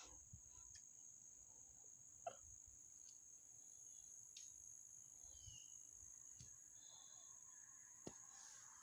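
Near silence: a faint, steady high-pitched insect drone, with a few faint short chirps and soft clicks.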